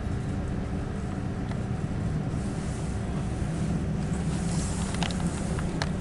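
Steady low rumble of a passenger train heard from inside the carriage, with a few sharp clicks in the last second or so.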